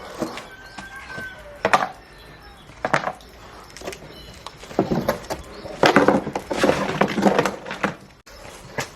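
Knocks and clatter of hard objects being handled: a few single knocks, then a dense run of clattering from about five to seven and a half seconds in.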